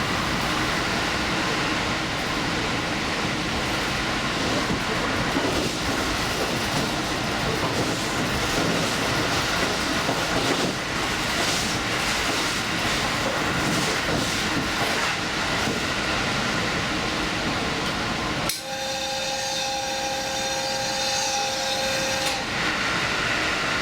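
Express train running on the line, a steady rumble of the running gear with scattered wheel-on-rail clicks. About 18 seconds in the rumble drops away and a steady two-note tone with a high ringing sounds for about four seconds, then the running noise returns.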